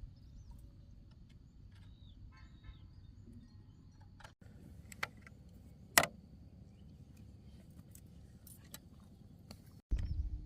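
Quiet outdoor background with scattered light clicks, a short chirp, and one sharp knock about six seconds in.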